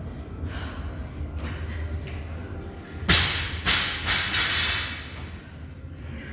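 A loud thud about three seconds in, followed by a couple of seconds of loud hissing bursts, over a steady low hum.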